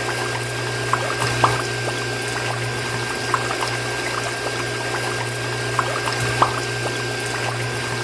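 Small water pump running with a steady low hum while water pours and splashes, with scattered drips plinking throughout.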